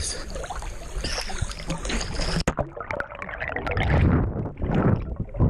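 Water sloshing and splashing close to the microphone, with wind buffeting it in uneven surges; the sound changes abruptly about halfway through.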